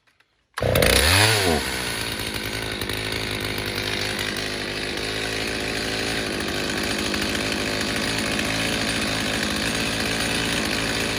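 Freshly rebuilt Stihl 029 chainsaw with a 45mm cylinder and an opened-up muffler, starting on the first pull on choke about half a second in. It revs up and back down once, then settles into steady running as it warms up.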